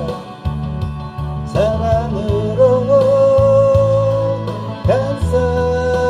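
Live music: a singer scooping up into long held notes over instrumental accompaniment with a steady bass line.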